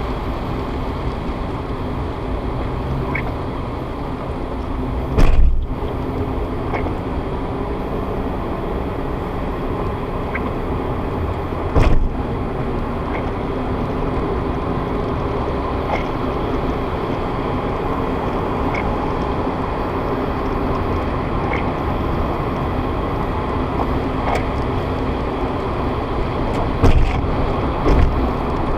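Steady road and engine noise of a moving car, picked up by a dashcam's built-in microphone inside the cabin. A few short thumps come through, about five seconds in, near twelve seconds and twice near the end, and a faint tick repeats every few seconds.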